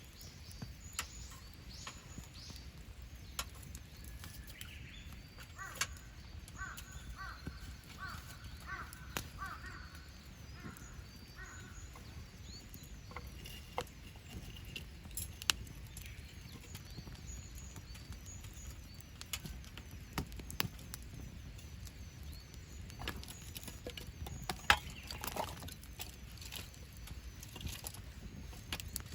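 Wood campfire crackling, with scattered sharp pops over a low rumble; the loudest pops come about halfway and near the end. Birds call in the background, with a run of short repeated calls a few seconds in.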